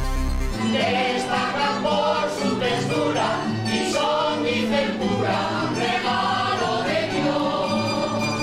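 Choir singing over sustained low notes. The singing comes in about half a second in, as a heavier bass passage cuts off.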